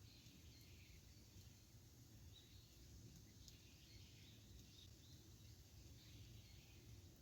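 Very faint wood campfire with a few soft crackles and pops over a low steady background hum, and faint short high chirps.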